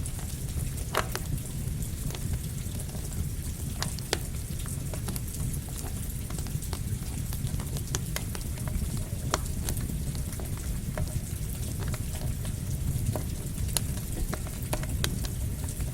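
Campfire crackling, with irregular sharp pops over a steady hiss and low rumble, mixed with falling rain.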